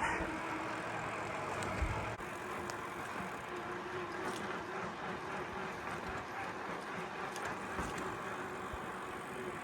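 Steady rolling noise from a bicycle riding a trail, with wind on the microphone.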